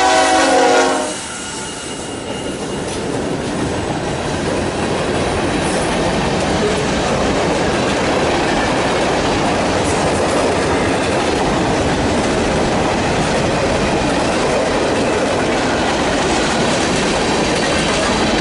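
Train horn sounding a chord that stops about a second in, then a passing train's cars and wheels on the rails making a steady, loud rumbling noise.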